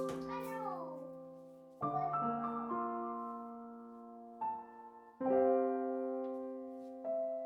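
Soft background piano music: slow, held chords that fade out, with a new chord struck every second or two.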